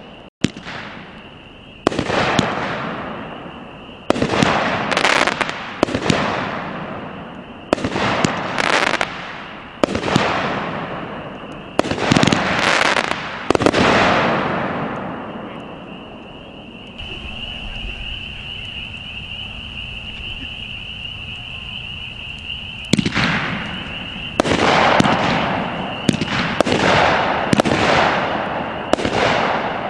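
Consumer firework cake firing a run of shots, each a sudden sharp report that trails off over a second or two. About halfway through the shots stop for some seven seconds, leaving a steady high-pitched tone, then resume in quick succession.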